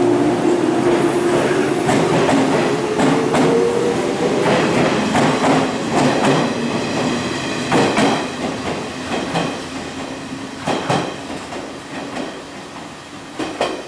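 115-series electric train pulling out of the station: a whine rises in pitch over the first few seconds, then the wheels clack over rail joints, a clack every second or two, growing fainter as the train moves away.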